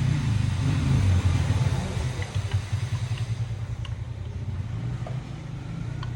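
Ingco cordless circular saw running with its new blade fitted, loudest over the first couple of seconds and then easing off.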